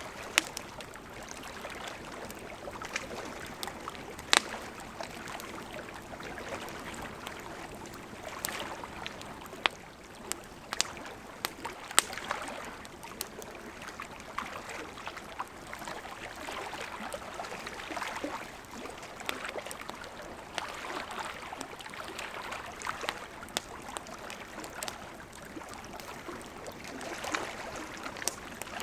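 Wood campfire crackling, with irregular sharp pops and snaps, the loudest about 4 and 12 seconds in, over the steady rush of a gently flowing river.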